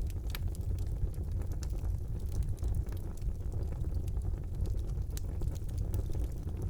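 Fire burning in a fireplace: a steady low rumble of flames with scattered sharp crackles and pops throughout.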